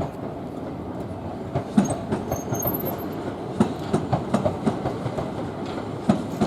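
Southern Class 377 electric multiple unit running past, its wheels clacking irregularly over rail joints and points, with the knocks growing louder and closer together from about a second and a half in.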